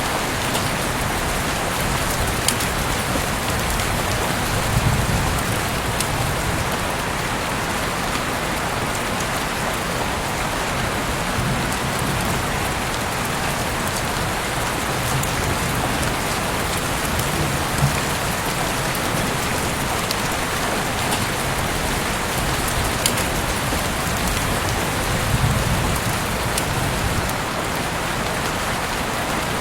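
Heavy rain falling steadily, a dense even hiss with scattered sharp drop ticks and a few soft low swells.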